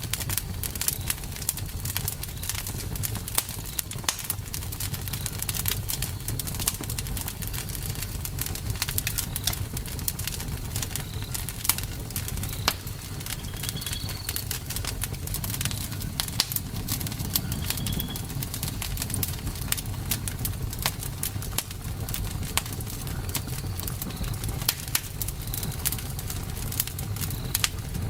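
Wood fire burning with a steady low rumble and dense, irregular crackling and popping. A few faint, short high chirps are heard around the middle.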